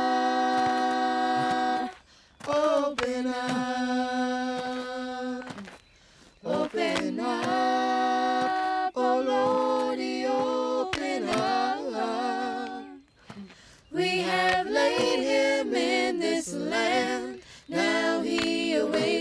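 A cappella voices singing a spiritual in harmony, holding long chords separated by brief pauses, then moving through shorter notes toward the end.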